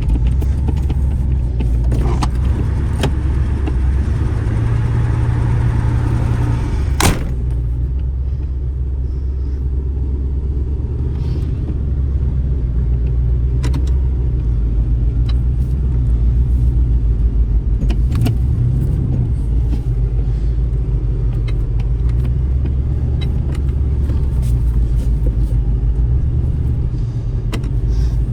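1990 Buick LeSabre Estate wagon's carbureted V8 running at a steady idle just after a cold start from a week of sitting. A single sharp knock is heard about seven seconds in.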